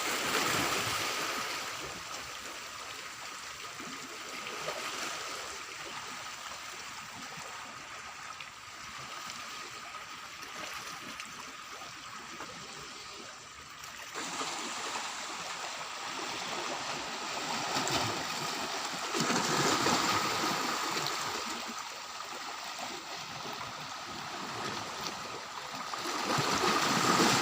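Seawater washing and splashing against the shore, rising in louder washes a few times and falling back.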